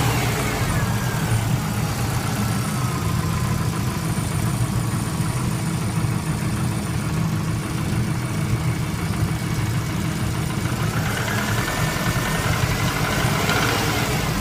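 Subaru Impreza GC8 turbo's EJ20 flat-four engine idling, its revs falling back to idle in the first two seconds after a rev. This is the abnormal noise the owner puts down to the engine's bearings ('metal'), a suspected bearing knock.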